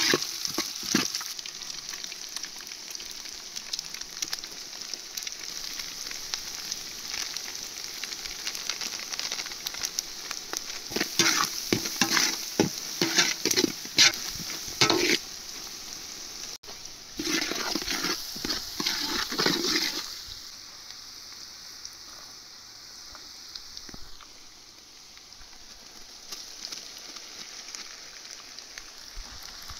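Chicken noodles sizzling in a hot pan while a spatula scrapes and tosses them in quick bursts of strokes. About two-thirds of the way through, the stirring stops and only a quieter, steady sizzle remains.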